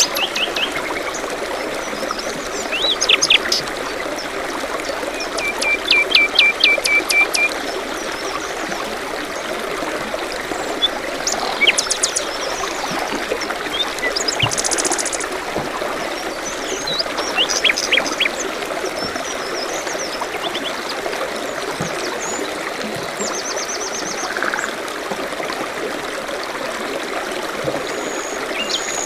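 Forest birds singing and chirping over the steady babble of a small stream. About six seconds in, one bird gives a rapid trill of evenly repeated notes for about a second and a half. Scattered chirps and whistles follow.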